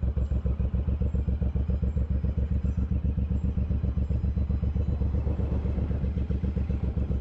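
Suzuki Boulevard M109R's 1800 cc V-twin running steadily at low revs, a rapid, even pulsing beat with no revving.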